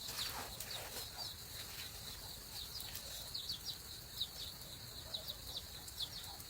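Chicks peeping in many short, falling cheeps, a few to the second, over a steady high drone of insects.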